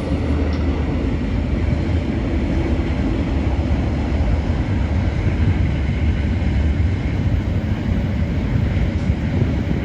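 A train passing close by: a loud, steady rail rumble with a low hum that swells up, holds, and fades away just after.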